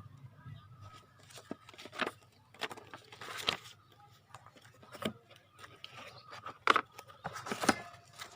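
Unboxing handling noise: cardboard box and packaging being moved and rummaged, with an irregular series of sharp knocks, clicks and rustles, the loudest two knocks near the end.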